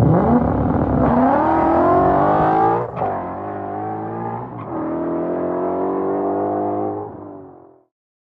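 Ford Coyote 5.0 V8 in a Fox-body Mustang revving with no exhaust system fitted yet. The pitch climbs for about three seconds, drops sharply, then rises again and holds before fading out near the end.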